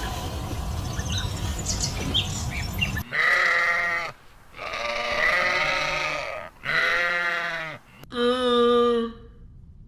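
Goats bleating: four drawn-out calls over about six seconds, the second the longest, after a few seconds of rumbling noise.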